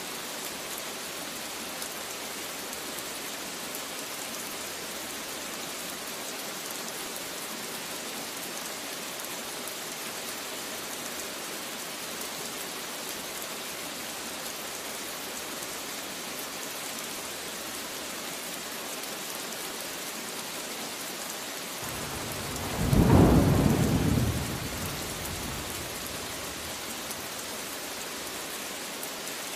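Steady rain falling, with one roll of thunder that swells about three-quarters of the way through, peaks, and dies away over a few seconds.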